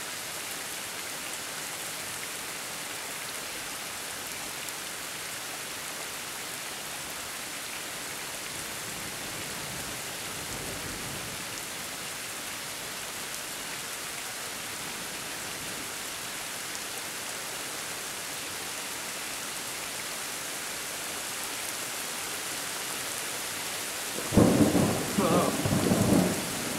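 Steady heavy rain falling, with a faint low rumble of thunder about ten seconds in and a loud clap and rumble of thunder near the end.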